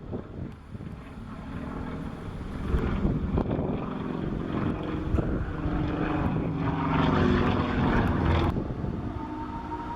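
Sukhoi Su-26MX aerobatic plane's nine-cylinder radial engine and propeller during a display, the engine note rising and falling as it manoeuvres. It is loudest around seven to eight seconds in, then drops away suddenly.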